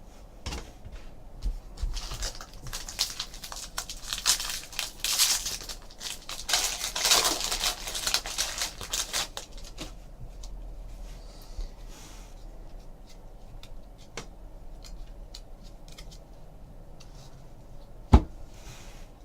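2014 Bowman Baseball Jumbo foil packs being torn open and crinkled, with cards handled between them. The crinkling is busiest over the first ten seconds, then gives way to quieter handling and one sharp click near the end.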